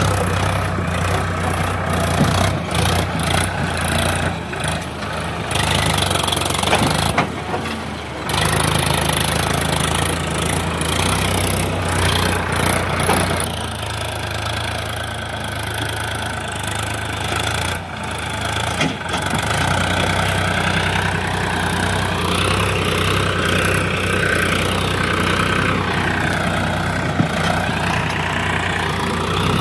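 Powertrac Euro tractor's diesel engine running steadily with a deep hum. In the second half a higher tone wavers up and down over it.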